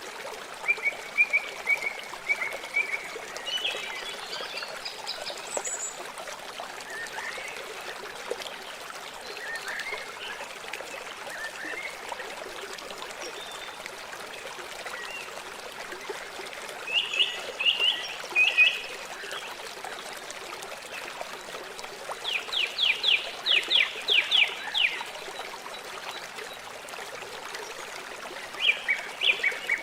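A river flowing steadily, a constant rushing trickle of water. Birds call over it: a few short chirps in the first seconds, a burst of calls about halfway, then rapid trills of quick repeated notes about three-quarters through and again near the end.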